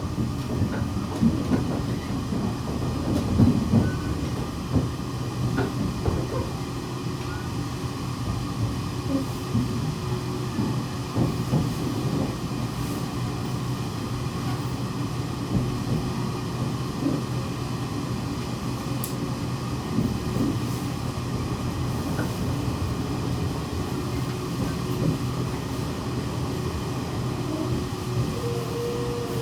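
JR West 117 series electric train running, heard inside the passenger car: a steady rumble of wheels on rail, with the clatter of wheels over rail joints heaviest in the first half.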